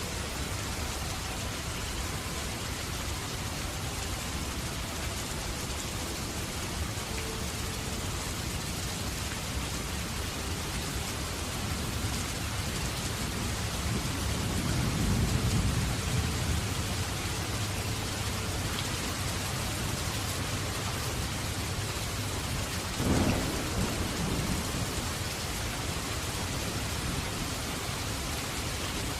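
Steady heavy rain falling, with thunder: a low rolling rumble swells about halfway through, and a sharper thunderclap cracks near the end before trailing off in a rumble.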